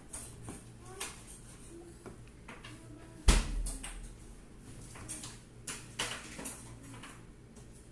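Scattered clicks and light knocks of kitchen things being handled, with one loud, low thump a little over three seconds in.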